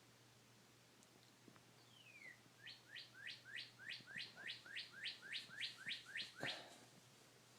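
A bird singing: one falling note, then a rapid run of about fourteen falling notes, three or four a second, ending in a short knock.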